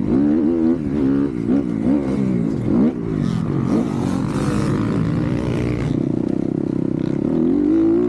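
Motocross dirt bike engine revving hard and dropping back again and again as the throttle is worked and gears are shifted, holding a steadier pitch for a moment before climbing again near the end.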